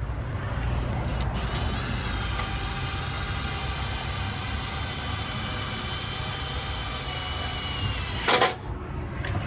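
Cordless power drill running with a steady whine for about six seconds, its pitch sagging just before it stops. A sharp knock follows near the end, over a steady low rumble.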